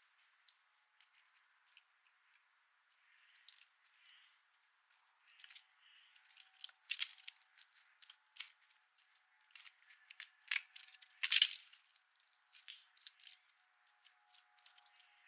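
Irregular sharp clicks and scrapes of an animal working at a bird feeder, clawing and pecking or gnawing at it. The clicks come in uneven runs and are loudest in two short clusters about halfway and two thirds of the way through.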